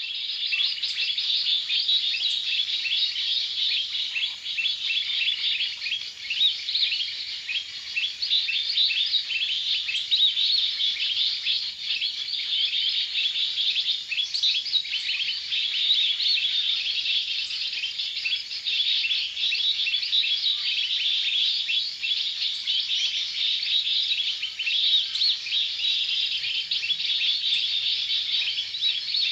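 Dense, unbroken chorus of many small birds chirping and twittering over one another, high-pitched and fairly loud, setting in abruptly at the start.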